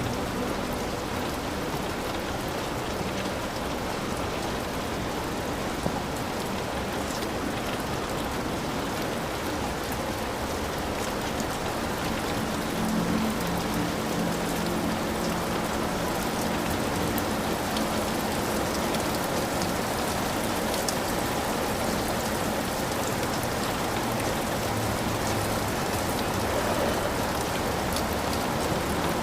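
Heavy rain falling steadily on a hut.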